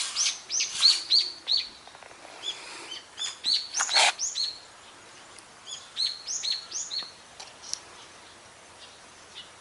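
A songbird singing three short phrases of quick, high, down-slurred notes, with pauses between them; a brief rustle about four seconds in.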